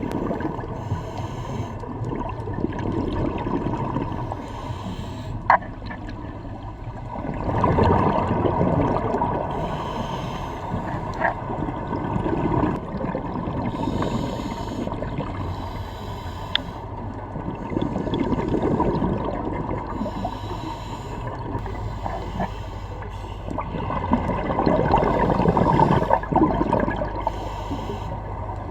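Scuba diver breathing through a regulator underwater: a breath in through the regulator, then a gush of exhaled bubbles every few seconds, with a few sharp ticks in between.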